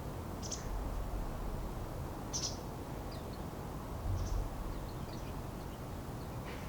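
Small songbird giving short, high calls, a handful of separate notes scattered through, with the loudest about two and a half seconds in and a cluster of fainter notes around four to five seconds, over a steady low rumble.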